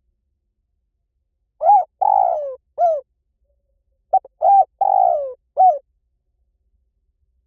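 Spotted dove cooing: two phrases, each of short coos around one longer coo that falls in pitch, the first about one and a half seconds in and the second about four seconds in.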